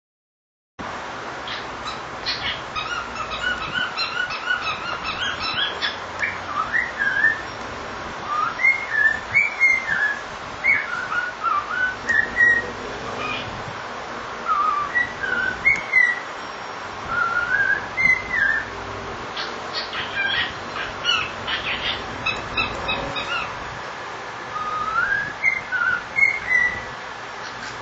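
Pet cockatiel whistling a song: a long run of gliding whistled notes rising and falling in phrases, broken by short sharp chirps, starting about a second in.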